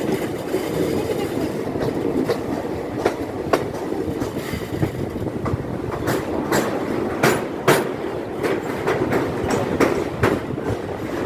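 Kirandul passenger train running on the rails: a steady rumble with irregular clicks and clacks of wheels over rail joints, with a cluster of louder clacks about two-thirds of the way through.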